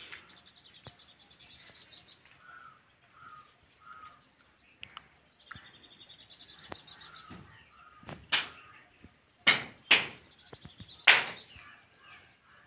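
Small birds chirping and calling, with a short note repeated three times about a second apart early on. In the later part, four short loud knocks or scuffs stand out above the birdsong.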